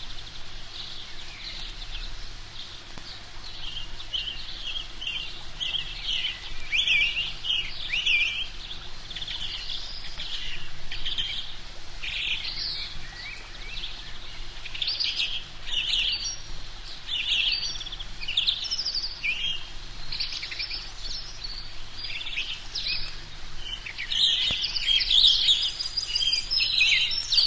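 Small birds chirping, a dense run of short high calls with hardly a break, busiest near the end.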